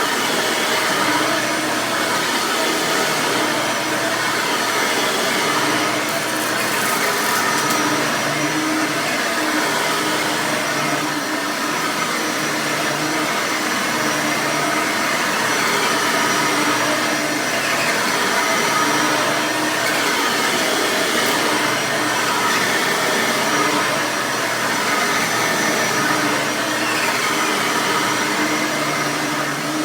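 Bissell 9-amp soft-bag upright vacuum cleaner running steadily on carpet, its motor note wavering slightly as it is worked.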